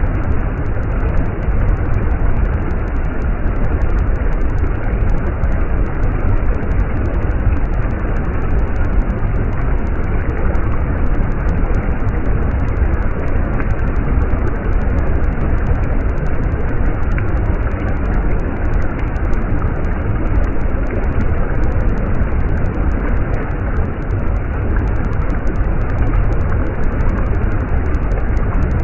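A stream's water running steadily: a dense, even rush with a strong low rumble and no change.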